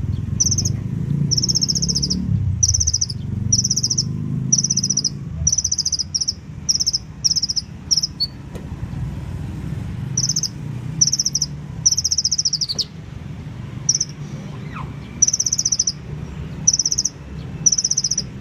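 Male crimson sunbird (sepah raja, or konin) chirping in a long run of short, high-pitched trilled phrases separated by brief gaps, with one pause of a second or two partway through. A steady low hum runs underneath.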